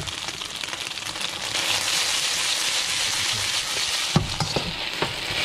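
Sliced red onion and scallions sizzling in hot oil in a wok as they are stirred with a metal spatula. The sizzle grows louder about a second and a half in, and near the end the spatula knocks against the wok a few times.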